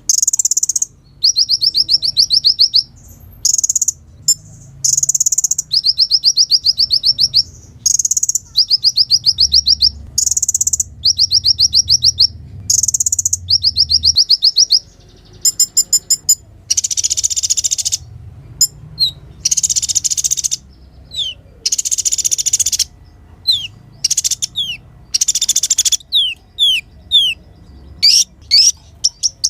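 Kolibri ninja sunbird singing: high, rapid trilled phrases of about a second each, repeated with short gaps, giving way about halfway through to harsh, buzzy chatters and then quick downslurred chips near the end.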